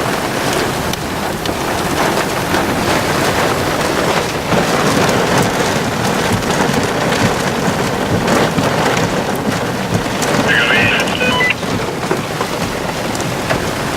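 Heavy wind-driven rain pelting the chase vehicle in a tornado's rain-wrapped rear-flank downdraft, a dense, steady drumming of drops throughout.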